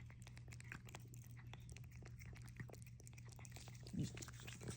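Cats licking and smacking at a lickable cat-treat stick: a run of faint, irregular wet clicks over a steady low hum, with one short low sound about four seconds in.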